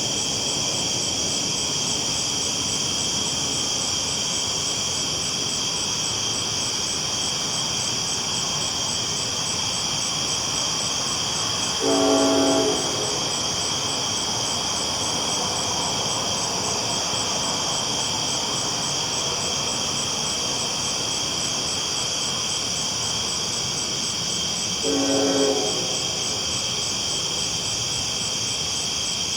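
Train rolling along the tracks with a steady rumble, sounding two short horn blasts, one about twelve seconds in and one near twenty-five seconds. A steady high chorus of night insects runs under it.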